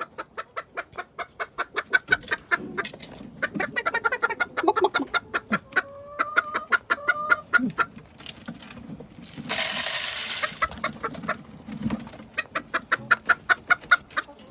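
Chickens clucking in a rapid, steady run of short clucks, several a second. A drawn-out call comes about six seconds in, and a harsh, hissy rasp lasting about a second and a half comes near the ten-second mark.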